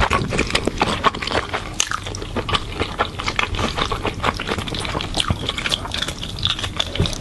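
Close-miked eating of noodles: wet chewing and mouth noises, a dense, irregular run of small sticky clicks and smacks.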